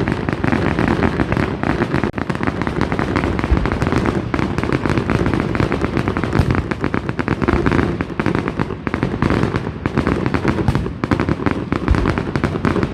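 Loud, continuous crackling: many small sharp bangs in rapid succession without a break.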